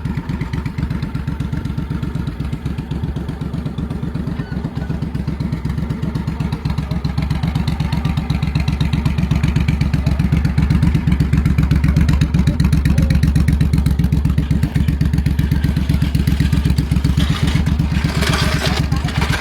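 2003 Ridley chopper's V-twin engine running steadily in a fast, even beat of firing pulses, growing a little louder partway through.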